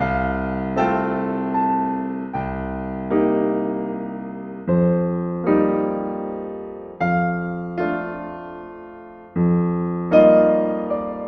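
Slow, gentle solo piano music: chords struck every second or two and left to ring and fade.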